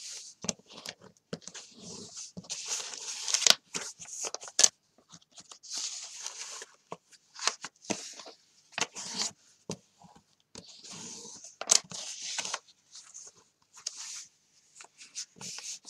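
Pages of a book being folded and creased by hand, one after another: repeated papery swishes and rustles with small sharp clicks, in short bursts with brief pauses between them.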